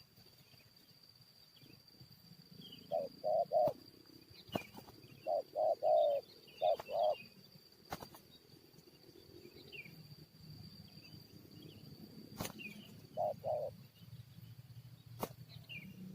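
Spotted doves cooing in short phrases of two or three low notes, a few phrases a few seconds apart. A steady high insect drone and faint chirps of small birds run behind.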